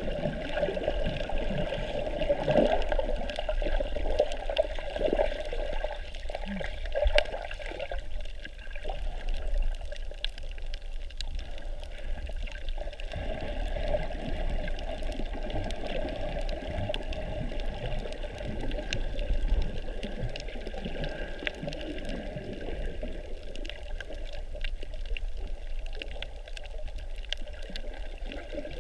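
Water sloshing and bubbling around a snorkeler's camera in the water, a continuous muffled wash that swells and eases, with faint scattered clicks throughout.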